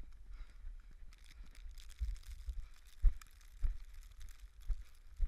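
Running footsteps crunching in snow, a thud about every half second to second, with wind rumbling on the microphone.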